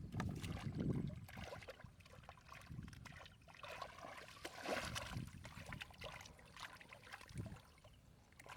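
Muddy water sloshing and dripping, with irregular small splashes and crackles, and a low rumble in the first second.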